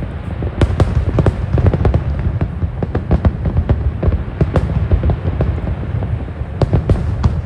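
Fireworks display: many sharp bangs and crackles in quick succession, several a second, overlapping on a continuous low rumble.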